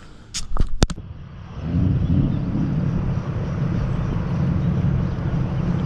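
A few sharp clicks in the first second, then a car's engine and road noise come in about a second and a half in and run on steadily, low in pitch.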